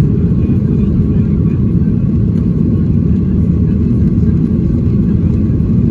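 Steady low rumble of a Boeing 737-800's CFM56-7B jet engines and airflow, heard from inside the passenger cabin in flight after takeoff.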